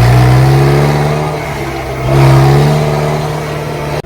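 Tractor engine running under load close to the microphone, its pitch and loudness rising twice as the throttle changes, then cutting off abruptly just before the end.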